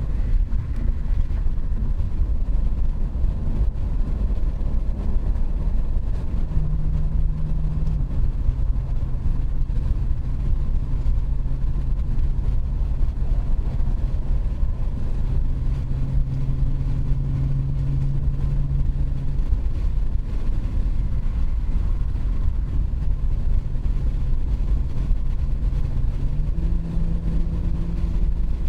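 2019 BMW 540i's B58 3.0-litre turbocharged inline-six, with its muffler deleted, running at steady cruise: a constant exhaust drone over low road rumble. The engine note shifts in pitch a few times.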